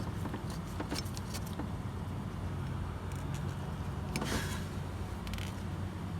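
Light metallic clicks and scrapes of a steel bolt and socket against the starter motor's mounting as the lower starter bolt is threaded in by hand. A few sharp clicks come in the first second and a half and a short scrape about four seconds in, all over a steady low hum.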